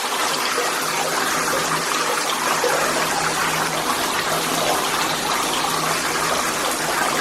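Shower water spraying into a partly filled bathtub: a steady, even rush of water from a high-flow shower head running with its flow restrictor removed.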